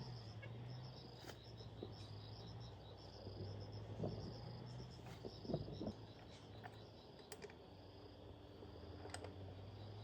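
Quiet, with insects chirping in rapid, evenly spaced high pulses over a steady low hum. A few light clicks and knocks come through, the strongest about four and five and a half seconds in.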